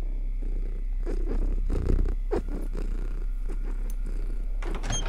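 A cat purring in uneven rasping strokes over a steady low hum, with a few sharp clicks near the end.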